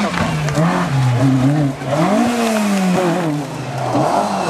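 Rally car engine revving hard, its pitch climbing and falling again and again as the car is driven flat out on a gravel stage.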